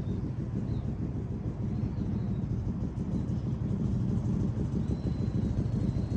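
Small practice motorcycle running at low speed through the course, a steady fluttering low rumble, with a few faint high chirps over it.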